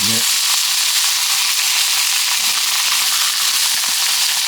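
Beef steak sizzling loudly on a hot pan just after being laid on it, a steady dense hiss of frying with faint crackles.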